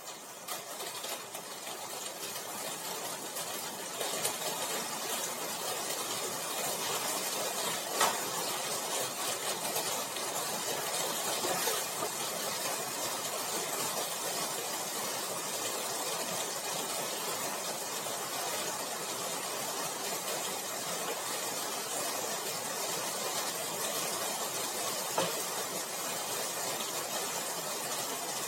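A steady hissing noise that builds over the first few seconds and then holds, with a few sharp clicks, the strongest about eight seconds in.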